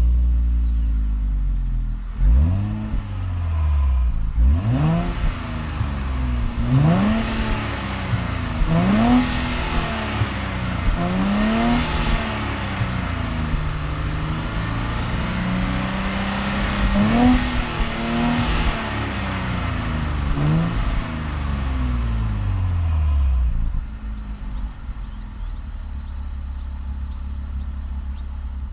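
Nissan Z's 3.0-litre twin-turbo V6 (VR30) accelerating hard. The engine note climbs and drops back again and again as it works up through the gears. Near the end the pitch falls away and settles into a low, steady running note.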